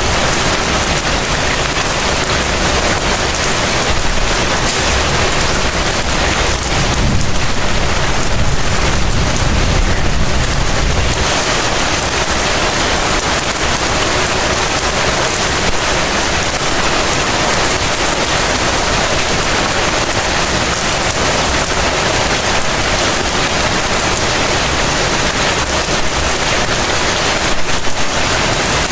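Heavy rain falling steadily, a dense even hiss of drops. A low rumble swells for a few seconds starting about seven seconds in.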